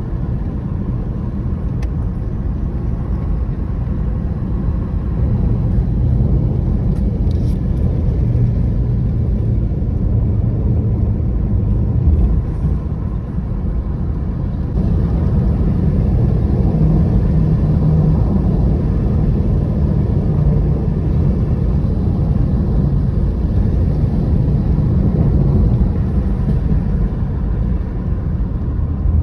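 Steady low rumble of a vehicle in motion, with a faint hum that rises and falls slightly.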